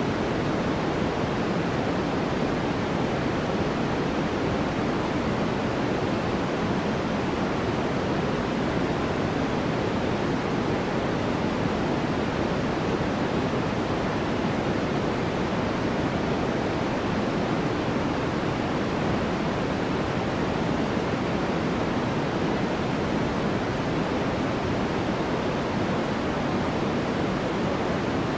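Steady white noise for sleep: an even, unbroken hiss that never changes in level. It is weighted toward the low and middle range and thins out toward the top, closer to pink noise than flat white noise.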